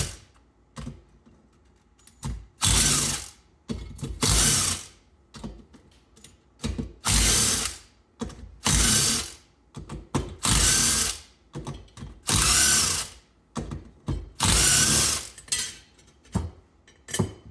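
Ratchet wrench worked back and forth on the fasteners of a small Briggs & Stratton engine being taken apart, each back-swing giving a burst of rapid clicking, about eight bursts roughly two seconds apart.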